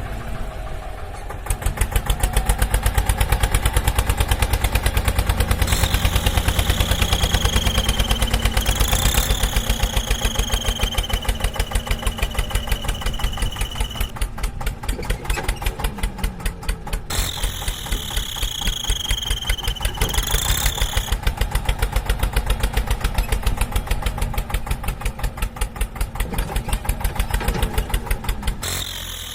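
Engine running with a rapid, even putter. A high whistling tone comes in twice over it, bending down in pitch.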